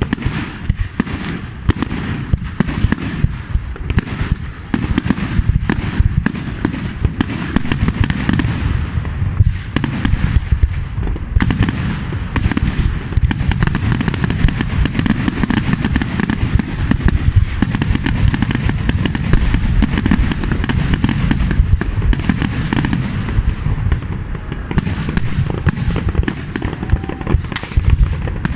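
Aerial firework display: a dense, near-continuous barrage of bangs and crackling from shells bursting overhead, with a low rumble beneath.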